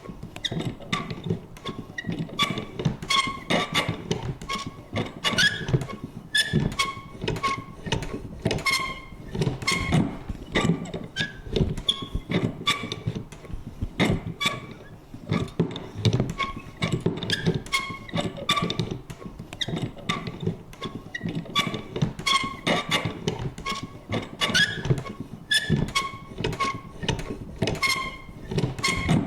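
Vintage paper punch worked over and over: rapid clicks and clunks, about two or three a second, with short squeaky creaks from its mechanism.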